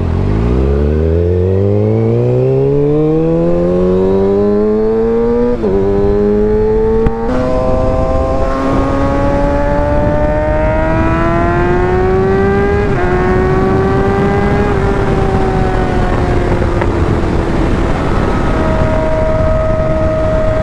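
Kawasaki ZX-6R inline-four engine accelerating, its pitch climbing steeply, with quick upshifts about five and a half and seven seconds in and another near thirteen seconds. It then eases off, the pitch falling slowly and settling steady near the end, with wind rushing over the helmet mic underneath.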